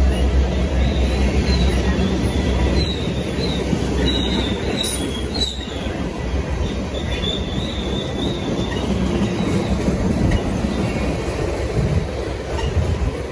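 A train rolling past with a steady rumble. Its wheels squeal in high, wavering tones that come and go through the first half or so.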